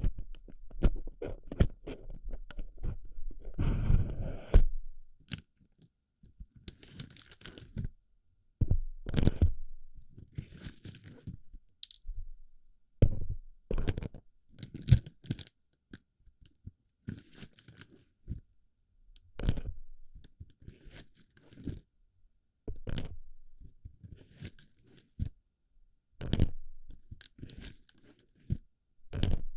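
Small plastic BB pellets crunching and clicking as they are packed into a microphone's ear, in irregular sharp clicks and short crackly bursts.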